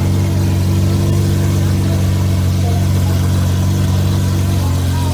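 A car engine idling steadily, with a low, even note that shifts slightly near the end.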